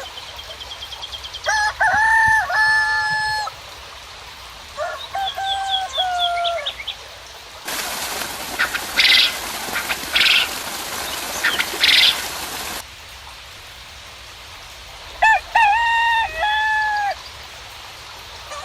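Roosters crowing, three long crows over the stretch, with small birds chirping high above. In the middle a steady hiss lasting about five seconds cuts in and out abruptly, with sharper bird calls over it.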